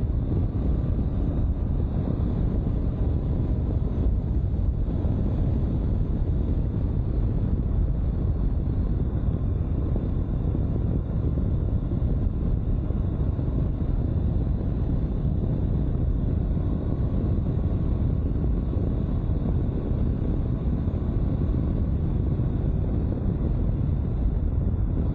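Honda CB500X parallel-twin motorcycle riding along at a steady pace, its engine rumble mixed with a constant rush of wind on the rider's microphone. The sound stays even throughout, with no revving or gear changes standing out.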